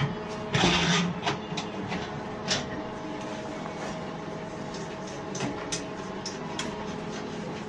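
Workshop clatter: scattered sharp metal clicks and knocks, with a louder rattling scrape about half a second in, over a steady background hum.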